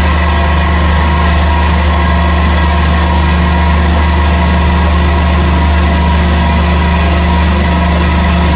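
CNC machine running steadily through a repair cut on a roller end: a constant low hum with steady whining tones over it.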